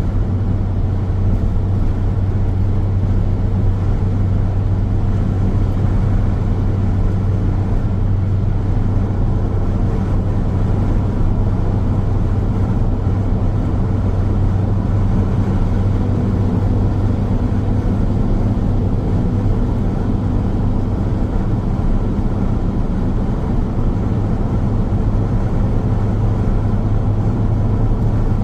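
A car driving steadily along a highway: continuous road and tyre noise over a low, even engine hum, with no change in speed.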